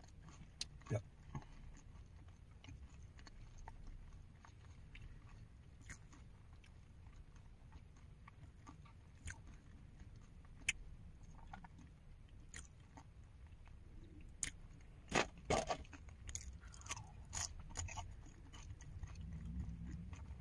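A person chewing and biting french fries close to the microphone: scattered soft crunches and mouth clicks, a few more bunched together about fifteen seconds in, over a low steady hum.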